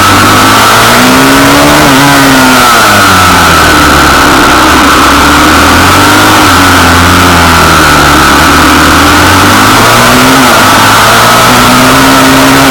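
Pit bike engine revving up and down, its pitch rising and falling every couple of seconds as the throttle is opened and closed. Loud throughout.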